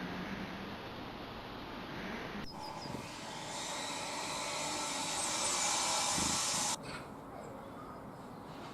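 A steady rushing hiss that starts suddenly about two and a half seconds in, grows slightly louder, and cuts off abruptly near seven seconds.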